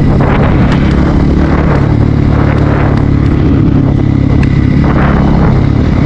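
Bajaj Pulsar NS160's single-cylinder engine running steadily under way, its note shifting slightly in pitch, with rushing noise over it.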